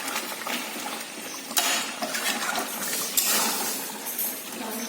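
Chicken pieces sizzling in hot oil in a pan while being browned with spices (kosha) for biryani, with a couple of knocks from the stirring spatula.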